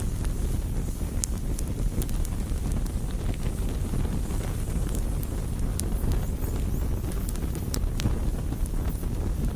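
Wood bonfire burning: a steady low rumble with scattered sharp crackles and pops from the burning wood.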